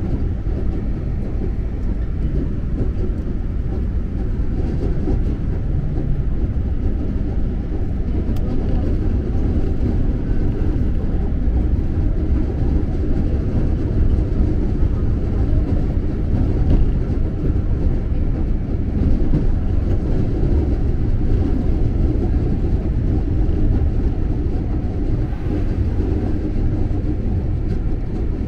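Electric commuter train running, heard from inside the carriage: a steady low rumble of wheels and track.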